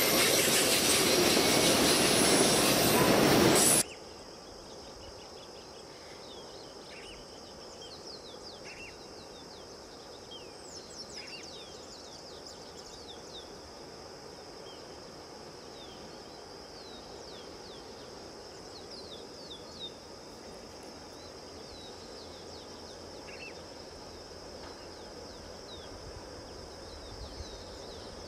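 Freight train of tank cars and boxcars rolling past close by, loud, cutting off abruptly about four seconds in. Then quiet countryside: a steady high insect buzz with scattered short bird chirps.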